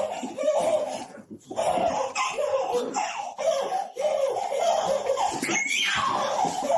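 A person laughing hard in repeated bursts of ha-ha sounds, with a short pause a little over a second in.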